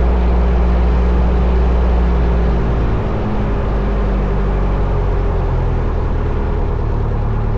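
The four-cylinder Lycoming O-320 engine of a 1972 Cessna 172 Skyhawk running at low power on the ground, a steady drone. About three seconds in, its pitch shifts and it gets slightly quieter.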